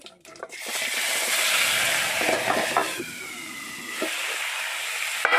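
Hot oil in a wok sizzling loudly as food is tipped in from a steel plate, starting suddenly about half a second in. A metal ladle then stirs and scrapes in the pan, with a few light clicks and one sharp clink against the wok near the end.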